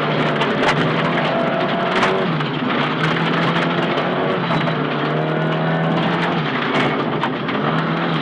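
Nissan Silvia S15 rally car's engine running hard at stage speed, heard from inside the car, its revs climbing and dropping again and again as it runs through the gears. Scattered sharp clicks and knocks sound over the engine.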